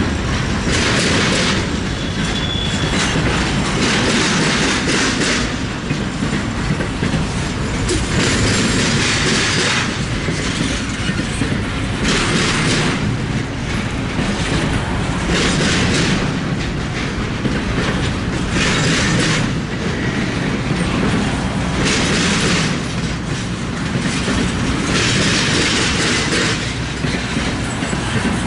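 Freight train cars rolling past at close range: a steady rumble, with wheel clatter swelling every couple of seconds as each car's trucks pass over the rail joints.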